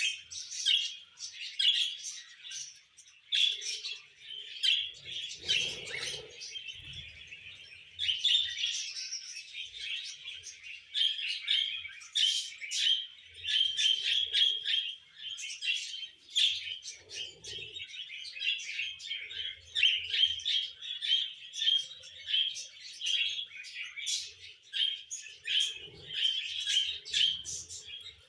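Small pet parrots chirping and chattering in a rapid, continuous stream of short notes, with a few faint soft thuds.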